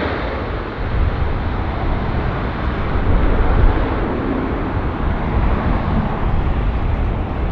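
Jet airliner engine noise: a steady rumble and roar with no clear tone.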